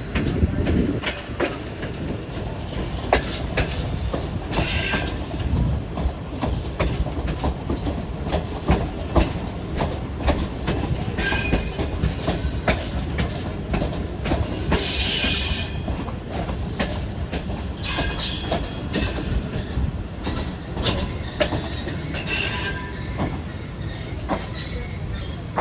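Passenger train running along the track: a steady rumble with wheels clacking and knocking over rail joints, and several short high-pitched squeals from the wheels.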